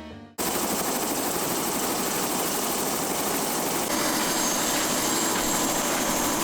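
Helicopter turbine and rotor noise, a steady dense rush that cuts in sharply about half a second in, with a faint high whine joining partway through.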